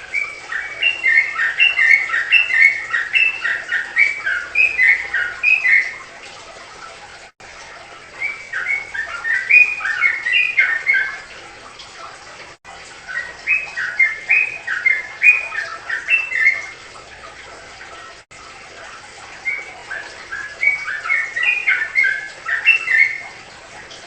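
A songbird singing four phrases of quick notes that jump up and down in pitch, each phrase a few seconds long with short pauses between.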